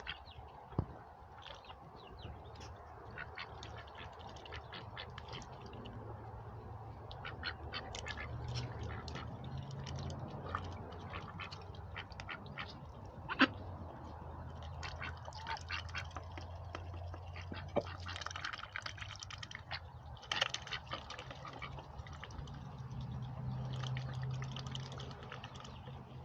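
Ducks in a poultry coop with occasional quacks, over a scatter of short clicks and taps and a sharp tap about halfway through.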